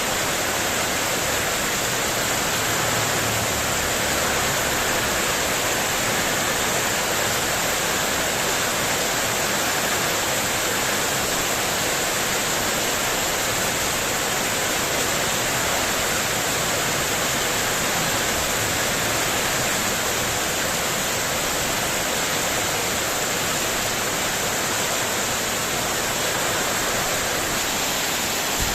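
Heavy rain falling steadily on a spandek metal sheet roof, a dense, even hiss with no single drops or gusts standing out.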